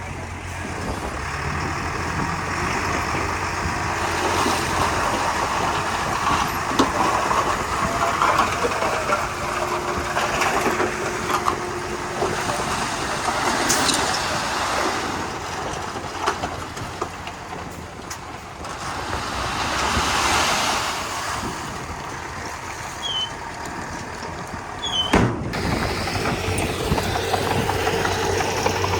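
Komatsu D31P bulldozer's diesel engine running steadily under work, its noise swelling and easing as the machine pushes soil and mud. A sharp knock comes near the end.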